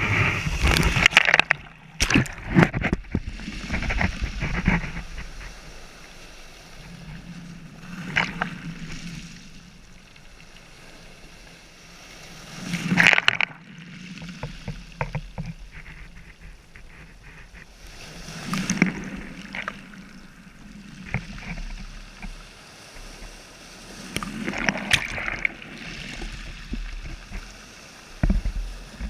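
Sea waves washing in and drawing back, a surge about every five or six seconds over a low rumble.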